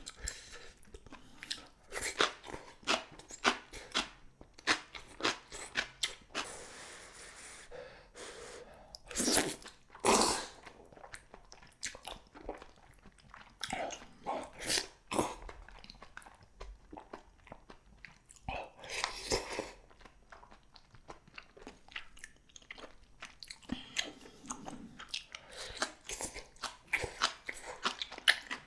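Close-up eating sounds of a person chewing spicy cheese jjimdak, Korean braised chicken with cheese: irregular wet chewing and crunching with smacks of the mouth, plus a few louder bites.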